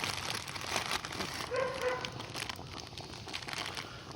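A single short animal call with a rising start, about one and a half seconds in, over a steady hiss.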